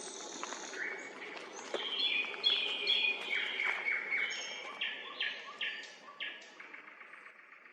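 Song thrush and nightingale singing, with rapid runs of clear, repeated whistled notes. The song fades out over the last few seconds.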